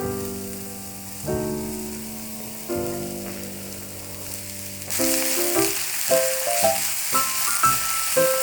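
Soft piano music plays; about five seconds in, food starts sizzling loudly as it hits hot oil in a frying pan, a steady crackling hiss under the piano notes.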